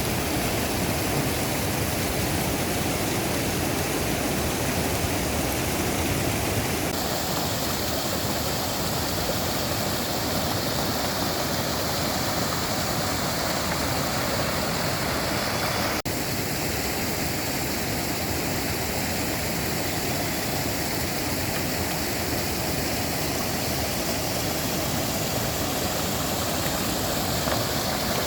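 Steady rushing of a fast mountain stream's water, an even hiss-and-roar with no break. Its tone shifts slightly about seven seconds in and again about sixteen seconds in.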